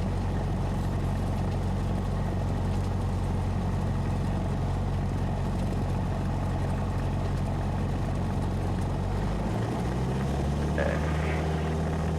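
Cessna 172SP's four-cylinder Lycoming IO-360 engine and propeller heard from the cockpit, running steadily, then rising in pitch about nine and a half seconds in as power comes up for the takeoff roll.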